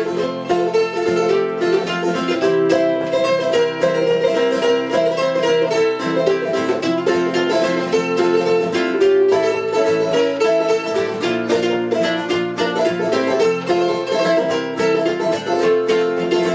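Instrumental break of an acoustic plucked-string band, with fast-picked notes over a steady strummed rhythm and no singing.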